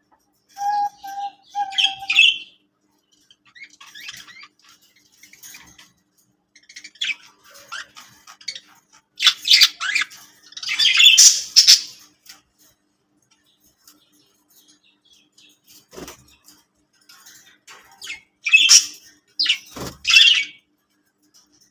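Budgies chirping and squawking in short bursts of chatter, starting with three brief whistled notes. The loudest bursts come about halfway through and again near the end. A couple of sharp taps or knocks are heard late on.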